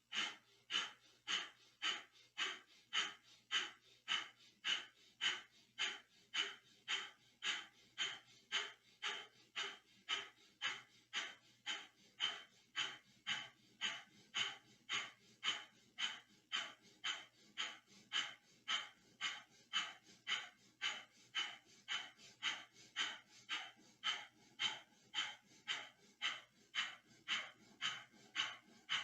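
Breath of fire: quick, forceful exhalations through the nose in a steady rhythm of about two a second, held at an even pace throughout.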